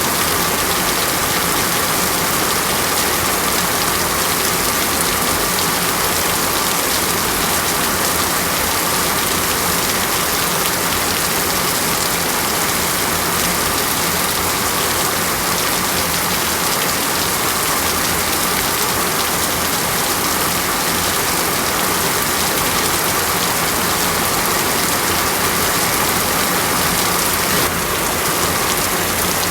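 Steady rainstorm falling on rainforest foliage: a continuous, even hiss of rain that does not let up.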